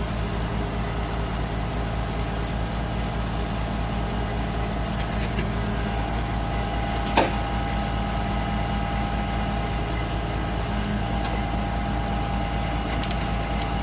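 Heavy truck diesel engine running at a steady speed during a winch recovery, with a steady whine that strengthens about halfway through. A single sharp click about seven seconds in.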